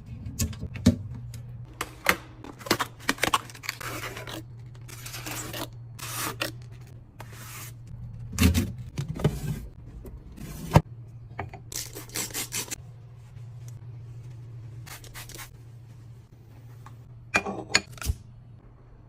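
Items being handled and set down while a fridge is restocked and organized: scattered clicks, knocks, rubbing and rustling of packaging and containers. A steady low hum runs underneath.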